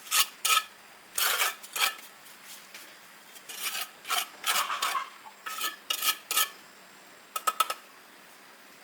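A metal trowel scraping and spreading cement mortar on bricks in a series of short, irregular strokes with a faint metallic ring, separated by brief pauses.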